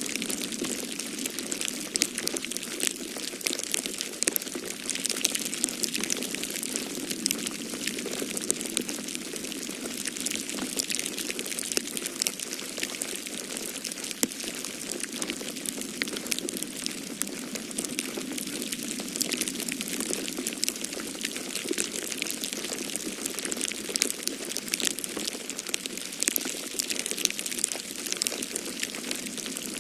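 Wood fire crackling in a fireplace, a dense run of small pops and snaps that never stops, over a steady low rushing of storm wind.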